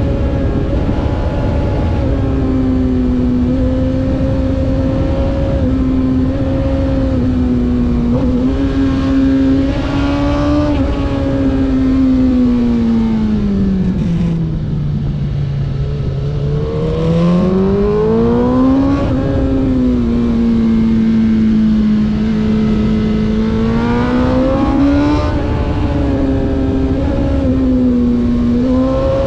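Race car engine heard from on board, running hard at steady revs; about twelve seconds in the revs fall steeply, bottom out for a few seconds, then climb back up, over steady road and wind noise.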